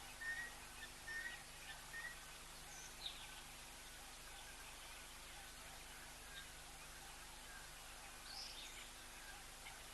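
Faint birdsong in the background: one bird repeats a short whistled note about every half second, clearest in the first couple of seconds and then fainter, with a few scattered chirps from other birds.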